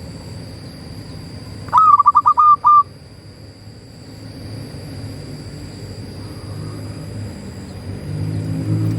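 Zebra dove (perkutut) cooing: a quick, loud run of about seven short coos a couple of seconds in, with a fainter dove's coos later. A low rumble swells near the end.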